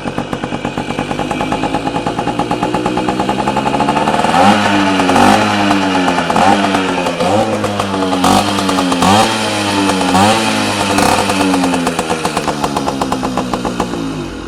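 Casal Boss 50cc two-stroke moped engine with an M80 exhaust, running with the revs climbing, then revved in a series of quick throttle blips about once a second, the revs falling away near the end.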